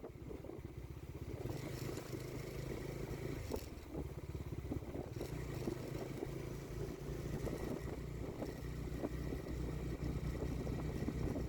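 Motorcycle engine running steadily with an even, low pulsing note.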